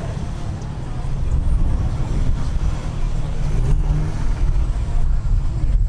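Car engine running with a heavy, uneven low rumble that grows louder about a second in.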